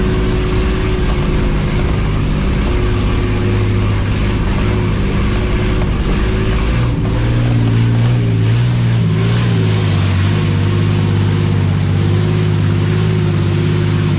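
Off-road 4x4's engine running under load while driving, heard from inside the cab. The engine note shifts and gets a little louder about halfway through.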